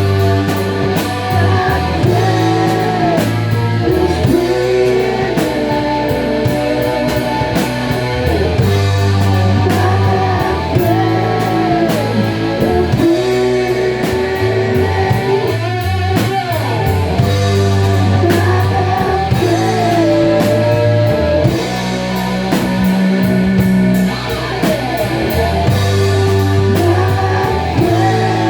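Rock band playing the chorus of a song in rehearsal: singing over guitar, bass and a steady drum beat.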